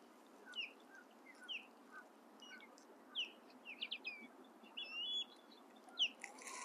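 Wild birds chirping: short separate calls that sweep up and down, a few each second, with a slightly longer buzzy call about five seconds in, over a faint steady hiss.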